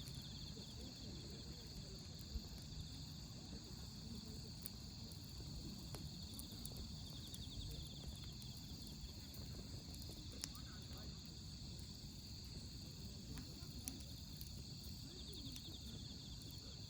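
Wood campfire crackling in a fire pit, with a few sharp pops, the loudest a couple of seconds in. Behind it, autumn insects sing steadily in a high trill, with bursts of faster pulsing trills now and then.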